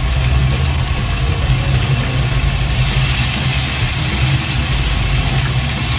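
Chicken and leek yakitori skewers sizzling in a frying pan as soy sauce is spooned in, the hiss growing a little brighter about halfway through. A steady low hum runs underneath.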